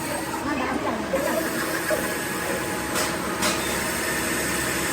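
Workshop machinery running with a steady mechanical noise, with two sharp clicks about half a second apart around three seconds in.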